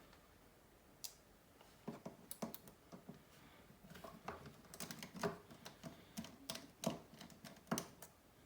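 Irregular light clicks and taps of small repair tools against a smartphone's frame and parts, starting about a second in and coming more often toward the end.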